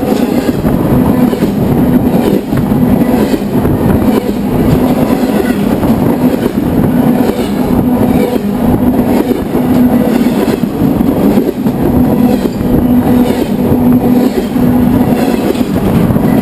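Freight cars of a BNSF train rolling directly over a microphone lying between the rails: loud, continuous rumble of steel wheels on rail, with a pulsing hum running through it.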